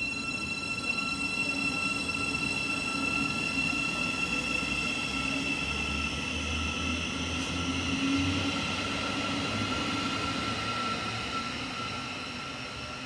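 A train running on the line, with a steady high-pitched whine over a low rumble. The sound eases off near the end.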